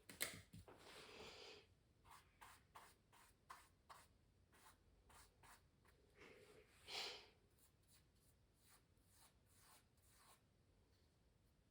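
Pencil scratching on canvas in short strokes, about two or three a second, with a longer scratch about a second and a half in and another near the middle. A sharp knock comes just after the start.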